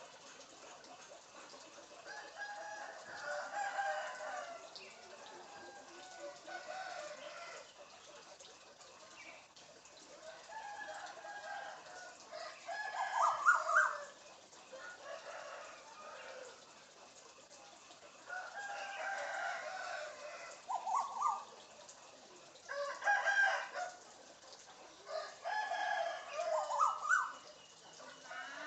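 Chicken-like calls, crowing and clucking, repeated in bursts of a second or two, with short rising calls among them.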